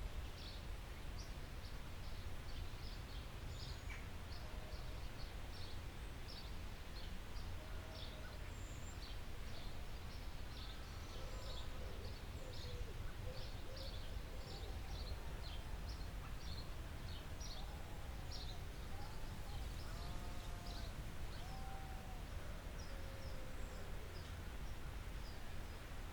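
Forest ambience: birds chirping in quick, short, high notes throughout, with lower, curving calls from another bird through the middle, over a steady low rumble.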